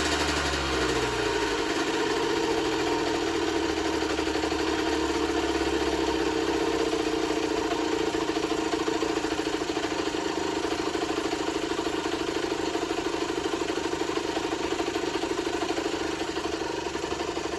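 Generic Trigger SM 50cc two-stroke engine dropping back from a rev in the first second or so, then idling steadily. The engine is running again after blocked jets and an intake air leak were fixed, though a bit smoky and running quite rich.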